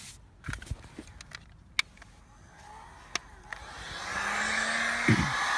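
A few scattered clicks and knocks, then about four seconds in a heat gun starts up with a steady blowing hiss that builds and holds; it is heating the dented body-panel metal before the dent is pushed out.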